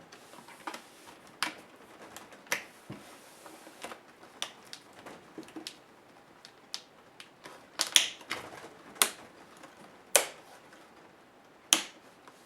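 Sharp, irregular clicks and snaps of plastic and metal laptop parts being handled and pried during disassembly, about ten of them, the loudest in the second half.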